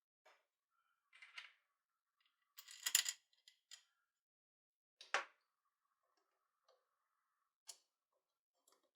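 Scattered light clicks and rattles of a hammer drill being handled during reassembly. The loudest are a short cluster about three seconds in and one sharp click about five seconds in.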